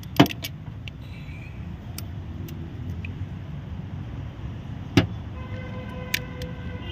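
Sharp metallic clicks from an injector-puller tool working fuel injectors out of a 5.0 V8 engine: two loud clicks about five seconds apart and a few fainter ones, over a steady low background rumble. A steady pitched hum comes in near the end.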